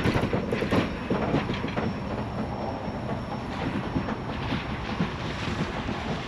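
Railroad cars of a passing train rolling by on the rails, with a few sharp wheel clicks early on, the sound slowly falling away.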